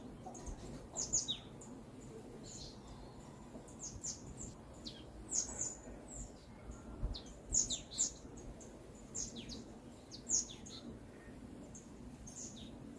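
Songbirds chirping: many short, high, downward-sliding chirps in quick runs, over a faint low background rumble.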